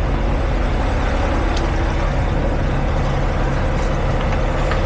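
Diesel semi-truck engine idling steadily, a low even hum.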